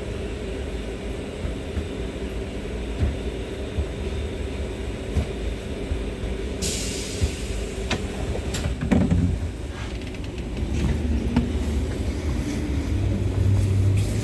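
An LVS-86K articulated tram running, heard from inside the passenger cabin: a steady low rumble of wheels on rail with scattered clicks. About seven seconds in a sudden hiss comes up and fades over a second or two, and near the end a low hum grows louder.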